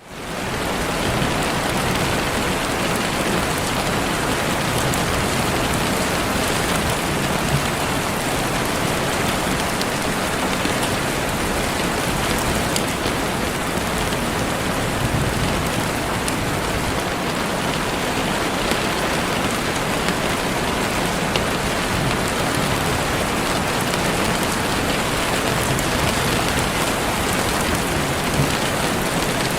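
Heavy rain falling steadily, fading in over the first second.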